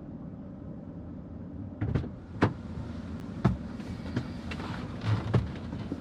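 A car engine idles with a steady low rumble. From about two seconds in, there is a series of about six irregular knocks and clicks, like handling and door or latch sounds in a car.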